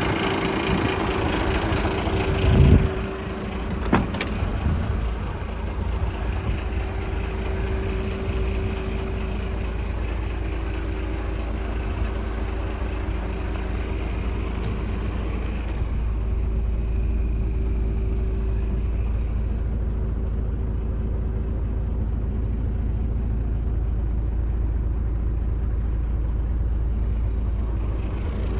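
Mitsubishi Fighter dump truck's 6D15 six-cylinder diesel engine idling steadily. A loud thump comes about two and a half seconds in and a sharp click about a second later.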